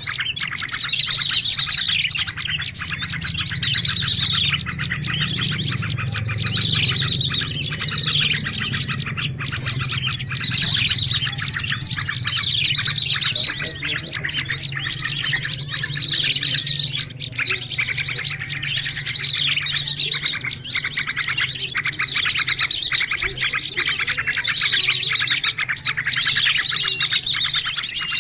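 Dense, continuous chirping and rapid trills of small songbirds, with falling calls recurring every couple of seconds. It is a bird-lure (pikat) recording used to draw small birds in.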